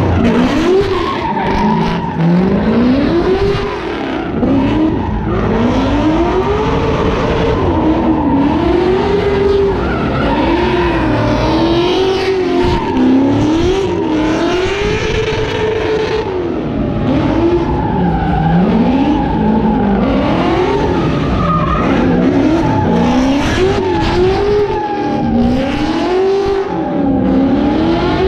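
Vortech-supercharged LS3 V8 revved hard over and over, its pitch climbing and dropping about every two seconds, while the car does a burnout and donuts with the rear tyres screeching on the pavement.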